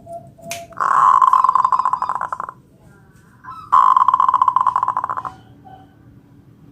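Zebra dove (perkutut) cooing: two fast, rattling trilled phrases, each about two seconds long, the second beginning about a second after the first ends.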